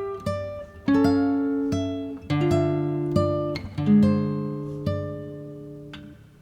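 Background music: acoustic guitar plucking notes and strummed chords, each note fading away.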